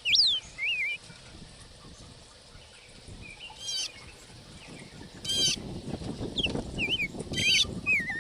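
Small birds chirping with short whistled calls, and three quick rapid call series about 3.5, 5.5 and 7.5 seconds in. A low rumbling noise runs under the second half.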